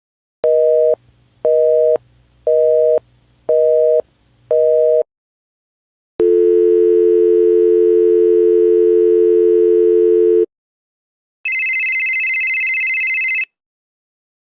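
Telephone line tones: a busy signal of five short, evenly spaced beeps, then a steady dial tone for about four seconds, then a brief high, rapidly fluttering electronic tone.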